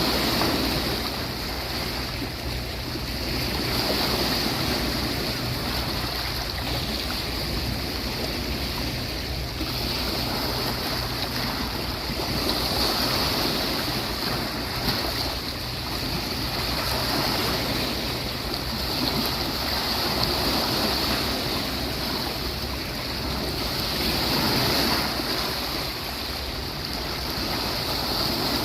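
Sea waves washing onto a beach, the surf swelling and easing every few seconds.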